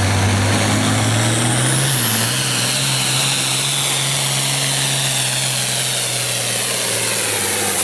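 Hot farm tractor's engine at full load pulling a sled, with a high whistle over it. About two seconds in, the engine pitch steps up and the whistle climbs and then holds steady: the engine coming back to life after being stuffed.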